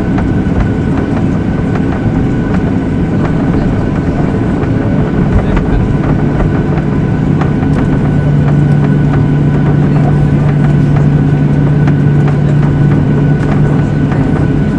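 Airliner cabin noise from the jet engines: a steady low rumble with a hum that comes up about six seconds in and then holds.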